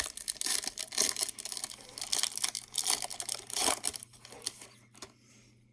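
A hockey card pack's wrapper being torn open and crinkled in the hands, in a quick run of crackly rips and rustles that dies away about four seconds in.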